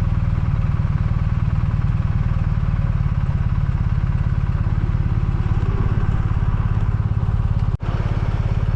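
BMW R1250RT boxer twin engine running steadily with an even low pulse. The sound breaks off for an instant near the end.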